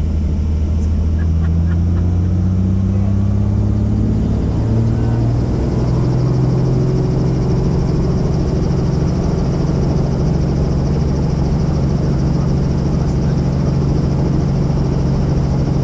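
Helicopter's engine and rotor running steadily, heard from inside the cabin. The pitch climbs over a few seconds, about two to six seconds in, then holds level.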